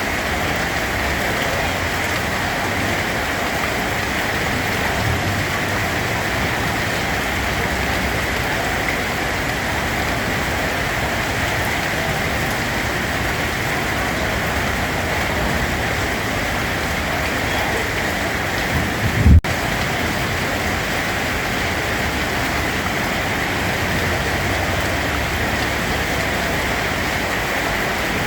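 Steady rain with an even hiss. About two-thirds of the way through, a brief low rumble swells into a thump and cuts off abruptly.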